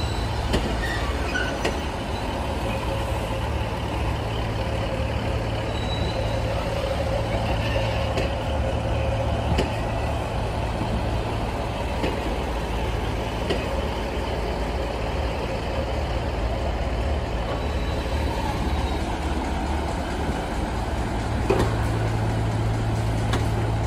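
Train running with a steady low engine hum, a faint steady whine above it and a few light clicks.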